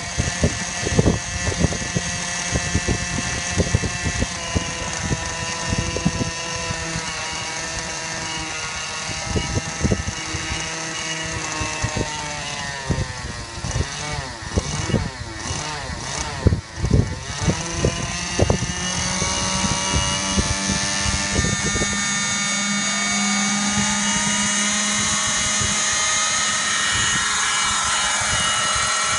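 Robinson helicopter's engine running, at first unevenly with frequent knocks and clatter and a wavering pitch. From about twenty seconds in it settles into a steadier note that rises in pitch as it speeds up.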